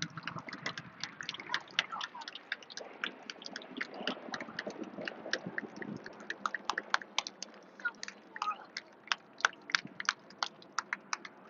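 Scattered applause: individual hand claps, sharp and irregular, several a second, with faint voices here and there.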